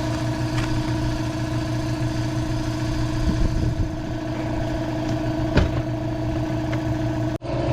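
A steady engine hum running at idle, with a single knock about five and a half seconds in. The sound drops out briefly near the end.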